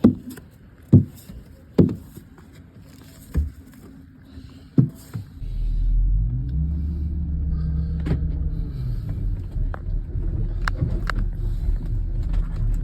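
A few separate sharp clicks and knocks, then about five seconds in a Porsche Cayenne's engine comes up to a steady low rumble that carries on, its pitch dipping and rising a little.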